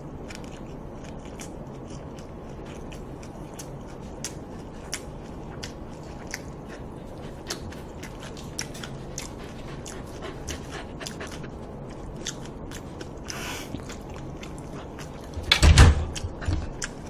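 Close-miked chewing of jokbal (braised pig's trotters): a steady run of small wet mouth clicks and smacks. Near the end there is one loud thump, then a smaller one.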